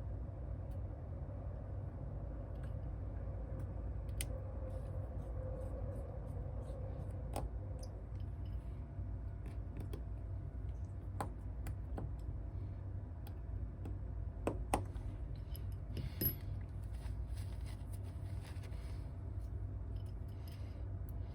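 Scattered small clicks and taps of hand tools and phone parts on a workbench during an iPhone repair, the sharpest two in the last third, over a steady low hum.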